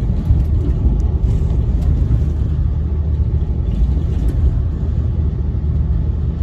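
Steady low rumble of a passenger train running at speed, heard from inside the coach: wheels on rails and running noise, with a few faint ticks.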